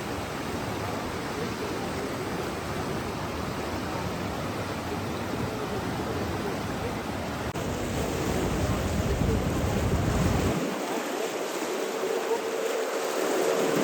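Steady rushing water noise, brighter from about halfway through. The deep rumble under it cuts out abruptly about ten and a half seconds in.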